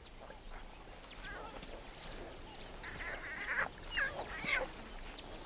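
Newborn lion cubs squealing and mewing: a run of short, high-pitched calls that bend in pitch, starting about a second in and loudest past the middle.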